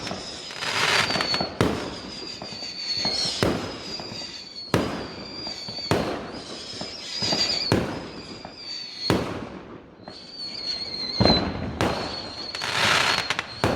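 Fireworks going off one after another: sharp bangs about every one and a half seconds, with crackling bursts between them and a thin, wavering high whistle through much of it.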